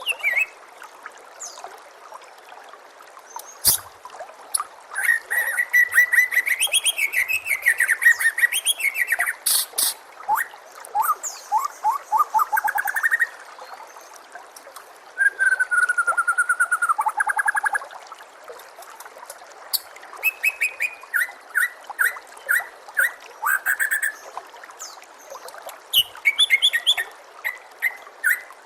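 White-rumped shama (murai batu) singing in separate bursts of loud whistled notes and rapid trills, some very high-pitched, over a steady trickle of water.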